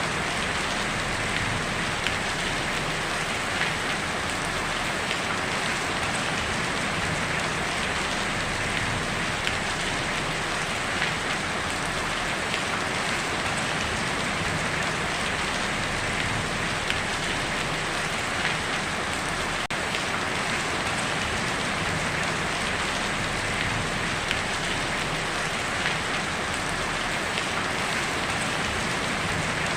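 Heavy rain drumming steadily on a tin roof, a dense even patter with scattered sharper drop ticks.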